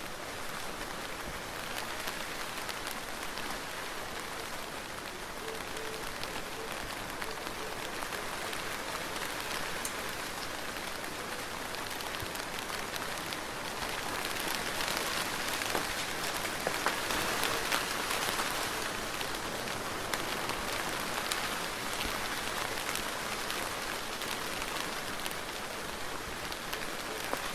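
Soft, steady rain: a continuous hiss with the fine tick of individual drops, swelling a little louder about halfway through.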